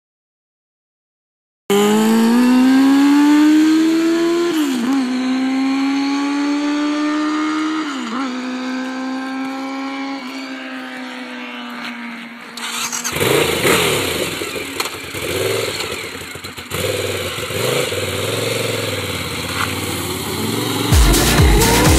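Sport motorcycle engine revving hard, its pitch climbing with two brief dips like gear changes under acceleration, starting about two seconds in. From about halfway on the sound turns rougher and choppier, with more noise and less clear pitch.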